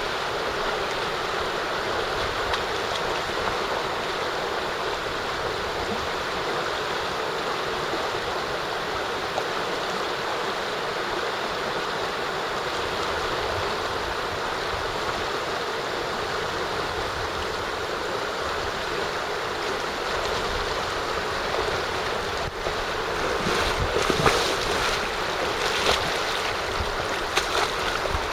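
Mountain stream water rushing steadily. From about 22 seconds in, a few louder, irregular noises break in over the flow.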